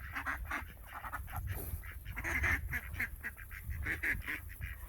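Domestic ducks quacking in a run of short, closely spaced calls.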